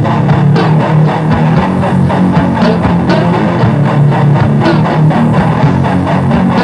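Heavy metal band playing an instrumental intro: distorted electric guitars and bass riffing over drums with regular hits.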